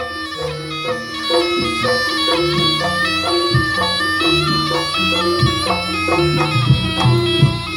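Jaranan ensemble music: a nasal, reedy wind melody of held, stepping notes over intermittent drum strokes.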